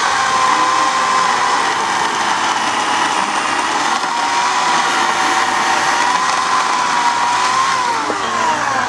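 Homelite 14-inch electric chainsaw running with a steady whine whose pitch dips and recovers, then winds down near the end.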